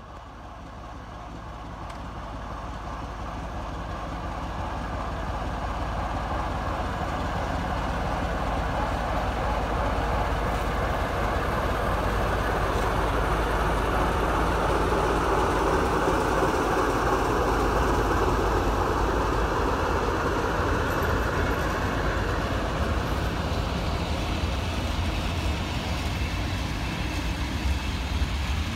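A train approaching and passing: a rumble and rolling noise builds over the first several seconds and stays loud through the middle and latter part, easing slightly near the end.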